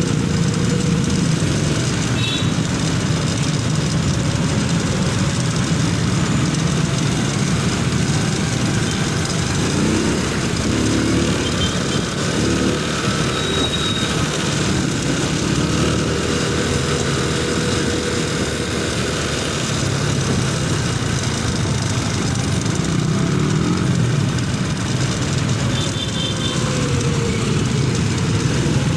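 Motorcycle engine running steadily under a constant rushing haze. Its pitch rises and falls slowly a few times.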